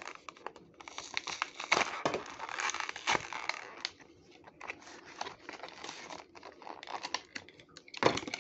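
Toy packaging being opened: plastic and cardboard crinkling and tearing in a run of irregular crackles and snaps as a die-cast model car is freed from its box, with a louder snap near the end.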